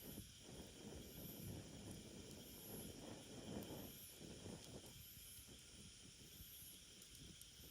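Faint crackling and hissing of a small wood fire burning, busiest over the first five seconds, with a faint high trill repeating about once a second behind it.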